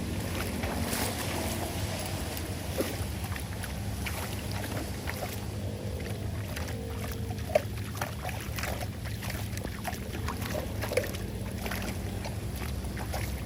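Floodwater rushing and gurgling down into a drain, a steady low rumble with many small splashes. Two short sharp knocks stand out, about halfway through and near the end.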